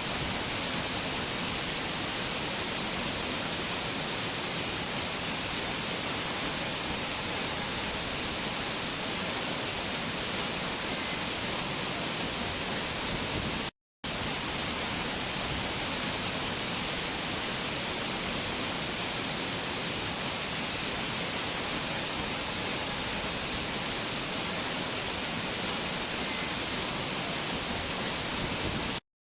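Waterfall: a steady, even rush of falling water. It cuts out completely for a split second about halfway through and again just before the end.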